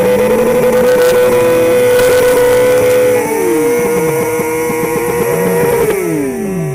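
Suzuki sportbike engine held at high revs during a rear-tyre burnout. The revs dip about three seconds in and fall away near the end.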